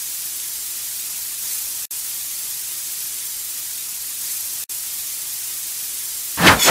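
Steady hiss like static or white noise, strongest in the high range, cutting out briefly twice; a louder noisy swell comes in near the end.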